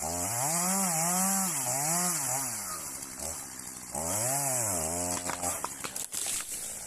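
Chainsaw revving and cutting wood, its engine pitch rising and falling over and over in two spells, then dropping back near the end with a few sharp knocks.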